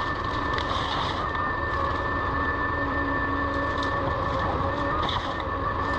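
Forestry harvester running steadily: a continuous engine drone with a steady high whine on top.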